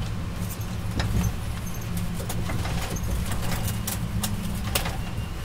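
Steady low rumble heard inside an Amtrak Keystone Service passenger coach running at speed, with scattered sharp clicks and rattles; a few louder clicks come about a second in and near the end.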